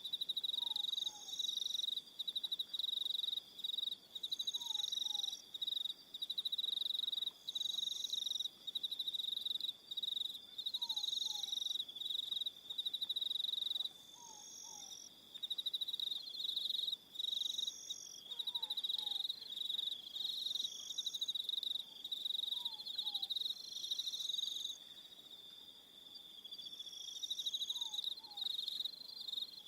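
Crickets chirping in a dense, pulsed chorus, dropping away briefly at times. A faint two-note falling call repeats every few seconds underneath.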